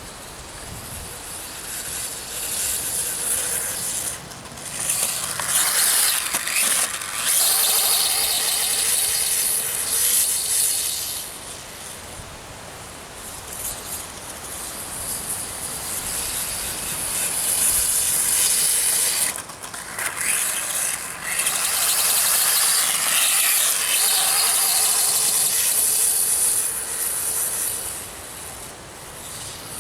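Electric motor and drivetrain of a radio-controlled dirt bike whining as it rides. The whine swells and fades in two long spells of hard running with quieter gaps between.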